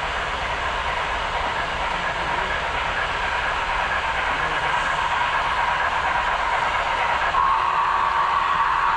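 HO scale model train running along the layout track, a steady whirring hum with a high tone that grows gradually louder.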